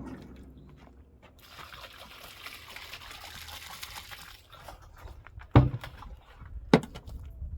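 Water pouring or trickling for about three seconds, then two sharp knocks a little over a second apart.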